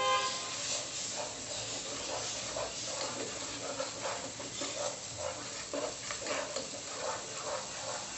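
Ground spice mix sizzling as it is stirred into hot frying onion, ginger and garlic paste, with repeated scrapes of a slotted spatula across the pot. It opens with a brief metallic ring as the small pan holding the spices is tipped against the pot.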